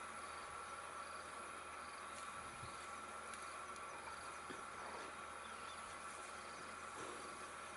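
Steady insect chorus: a constant, even high drone with no breaks.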